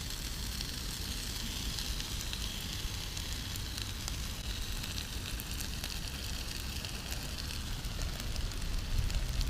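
Chicken and pepper kebabs sizzling in a dry pan over hot campfire coals: a steady hiss with scattered crackles and pops from the cooking and the fire.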